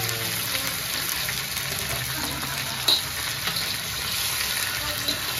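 Raw fish pieces sizzling in hot oil in a wok as a steady hiss, while a spatula stirs them. One sharp knock of the spatula against the wok about three seconds in.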